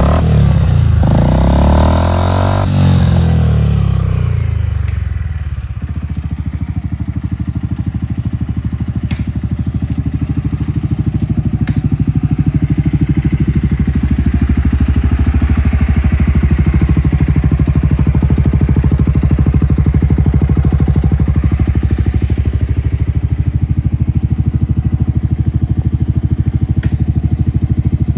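Yamaha Grand Majesty 250 scooter's single-cylinder four-stroke engine, revved and then dropping back to idle over the first five seconds or so, then idling steadily.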